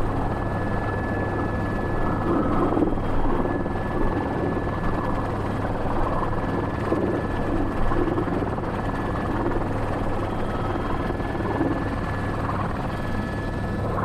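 Airbus H125 (AS350 B3) helicopter's single turboshaft engine and rotors running steadily, heard from inside the cockpit: an even rushing noise with a constant low hum and a thin, steady high whine.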